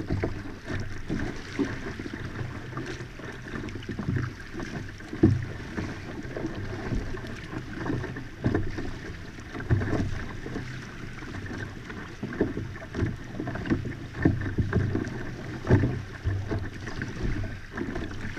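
Water lapping and sloshing against the hull of a moving pedal-drive kayak, with short knocks and splashes about once a second over a steady low rumble.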